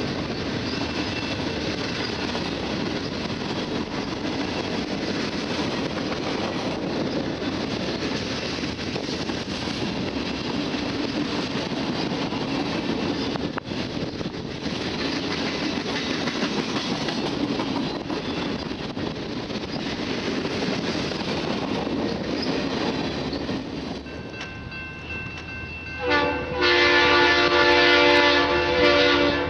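Freight cars rolling past on the rails with steady wheel rumble and clickety-clack, fading as the end of the train goes by about 24 seconds in. Near the end a diesel locomotive's multi-note air horn blows a long, loud blast from the next approaching train.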